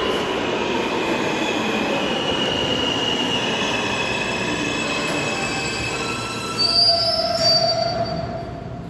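R160A subway train running along the track, its wheels squealing on the rails over a steady mix of held tones. About six and a half seconds in, a sharper high squeal and a lower one rise briefly, loudest around seven seconds, and then the sound fades.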